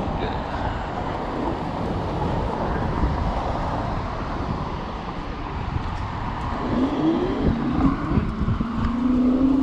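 Road traffic and wind buffeting the microphone while riding through city streets. Near the end a motor tone rises steadily in pitch as a vehicle accelerates.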